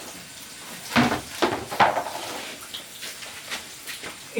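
Kitchen clatter of dishes and utensils, with a few sharp knocks about a second in and another near the end over a low steady hiss.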